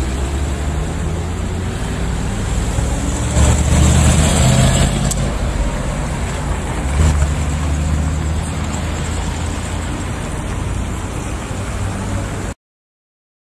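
Car engine and road noise, a steady low rumble that grows louder for a second or two about three and a half seconds in and briefly again around seven seconds, then cuts off suddenly shortly before the end.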